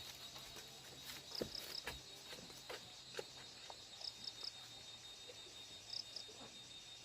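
Insects chirping: a steady high drone with groups of three short, higher chirps every couple of seconds, and a few faint clicks in the first seconds.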